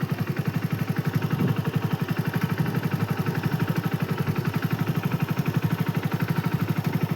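Motorcycle engine running steadily at low revs, with an even pulse of about eleven beats a second.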